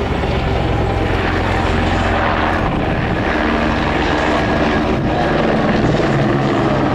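Two Royal Australian Navy helicopters flying in close formation: a steady blend of rotor chop and turbine engine noise.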